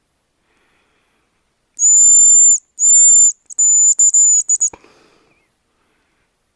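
Hazel grouse decoy whistle blown in the bird's call: two long, very high, thin whistles followed by a run of short broken notes. It ends in a single knock and a brief rustle about five seconds in.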